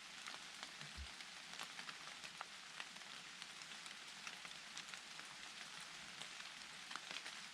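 Steady rain falling in a forest: an even hiss with many individual drops ticking, and a brief low thump about a second in.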